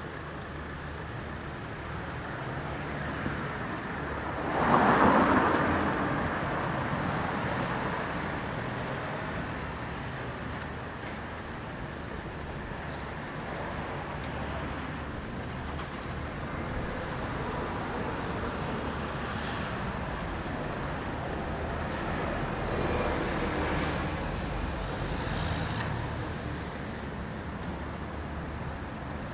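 Road traffic running steadily along a city street, with a vehicle passing close and loud about five seconds in and another going by more softly near the end.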